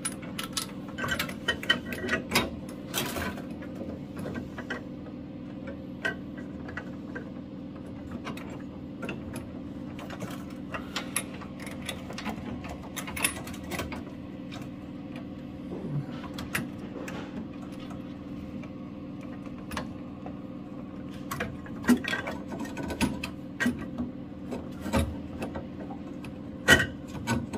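Hands and tools working on a boiler's flow manifold pipework: scattered clicks and knocks of fittings and tools, busiest in the first few seconds and again near the end, over a steady low hum.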